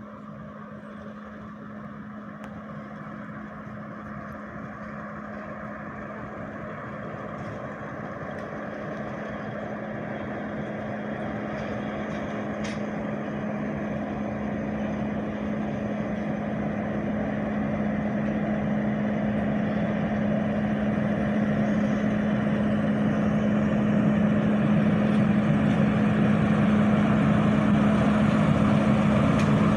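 Class 50 diesel locomotive's engine running with a steady hum, growing steadily louder as the locomotive approaches.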